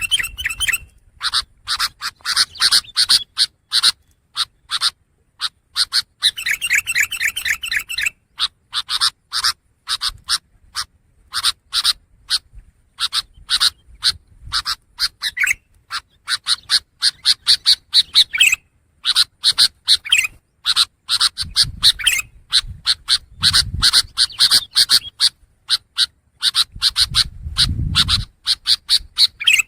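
Long-tailed shrike singing: phrases of rapid, harsh chattering notes repeated many times a second, broken by short pauses. Two low rumbles come in during the second half.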